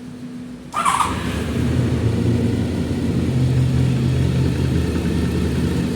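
Honda VFR 750F's V4 engine started warm: the starter cranks briefly about a second in, the engine catches almost at once and settles into a steady idle. It runs cleanly, without extraneous metallic noises.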